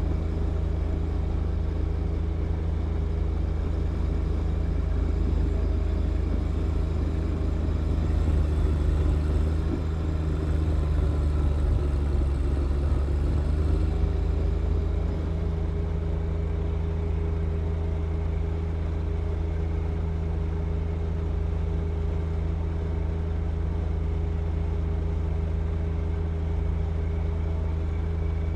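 John Deere 1025R compact tractor's three-cylinder diesel engine running steadily while working a front snow blower. About halfway through the note gets louder and sags slightly in pitch for a few seconds, then steadies again.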